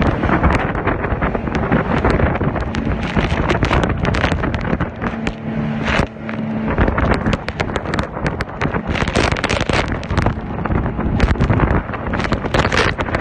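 Boat engine running steadily under heavy wind buffeting the microphone, with rain and spray striking in a storm at sea. The gusts and hits come in rough, uneven surges.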